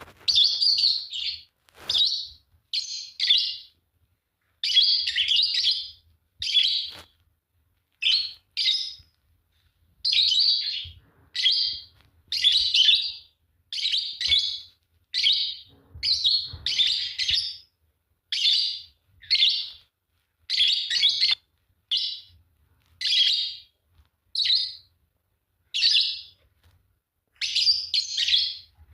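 Fischer's lovebirds chirping in a rapid run of short, shrill bursts, about one or two a second with brief pauses between.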